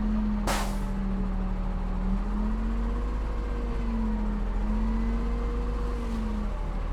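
Heavy diesel earthmoving machinery running steadily, its engine pitch wavering slightly up and down, with a short sharp hiss about half a second in.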